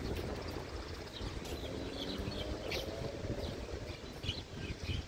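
Small birds chirping in short, scattered calls over a low steady outdoor rumble.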